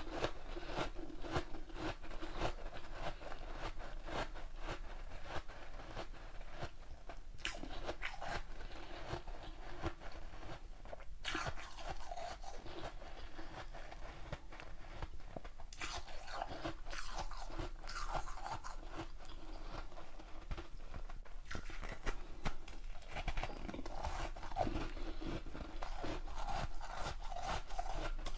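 A person biting and chewing hard ice: a dense, continuous run of crunches.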